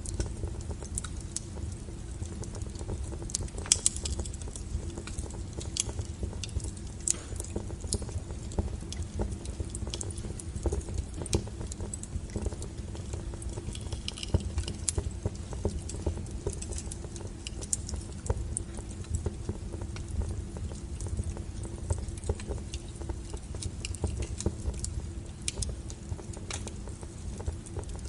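Wood fire burning, with frequent irregular crackles and sharp pops over a low steady rumble.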